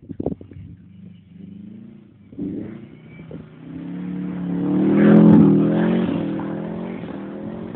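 Subaru Impreza GT's turbocharged flat-four engine revving under throttle, its pitch climbing and getting louder to a peak about five seconds in, then easing off.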